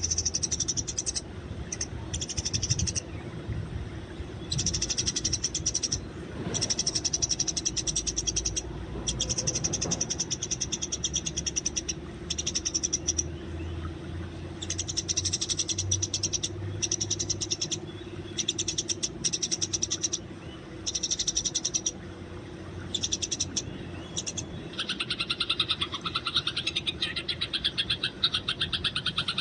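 Eurasian tree sparrows chirping in rapid, high, repeated bursts broken by short pauses. A denser, lower rapid pulsing sound joins near the end.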